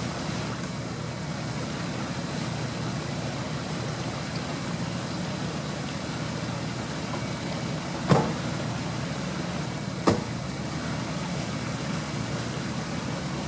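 Off-road vehicle engine running steadily at a constant note, with two sharp knocks about two seconds apart, around eight and ten seconds in.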